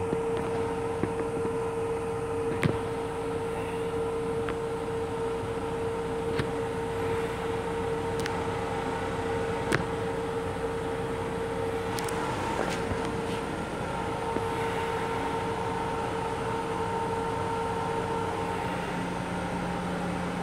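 Steady running hum of a Long Island Rail Road M7 electric railcar heard inside its small restroom, with a constant tone that stops a couple of seconds before the end. A few light clicks and rattles sound over it.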